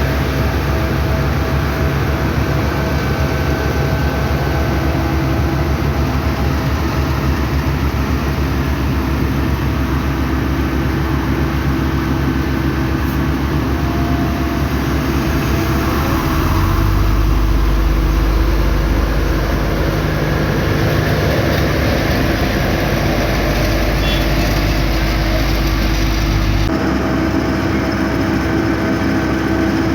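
Heavy diesel machinery of an asphalt paving crew running steadily. A deeper engine grows louder about halfway through, and the sound changes abruptly near the end.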